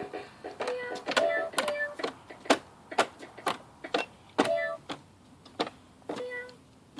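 A child's toy cat piano played haltingly: a few short electronic notes sounded one at a time, amid irregular sharp clicks of its plastic keys being pressed and tapped.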